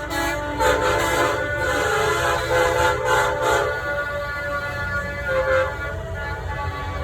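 Big-rig air horns blowing in long, loud chords of several notes, the chord changing every second or so as horns overlap, then fading after about four seconds over a steady low rumble.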